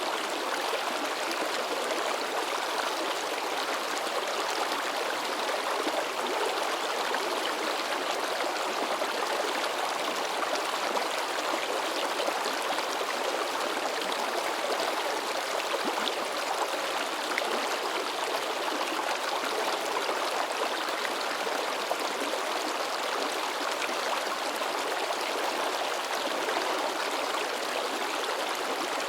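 River water babbling and splashing over rocks in a steady, unbroken rush.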